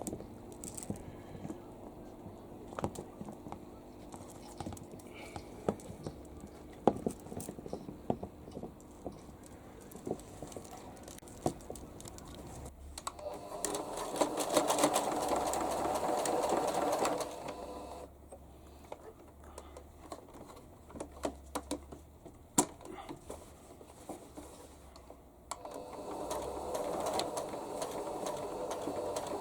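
Sewing machine stitching thick fabric, running in two stretches, about halfway through and again near the end. In between come quieter pauses with scattered sharp clicks.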